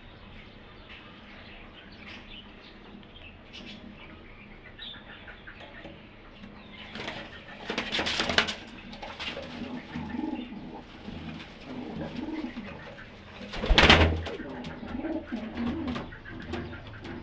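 Pigeons cooing in low, wavering calls through the second half. Two loud bursts of wing flapping come about eight seconds in and about fourteen seconds in.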